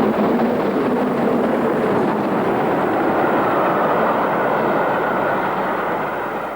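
Great Western Railway King class express steam locomotive hauling a passenger train, a loud, steady rush of running noise that eases slightly near the end.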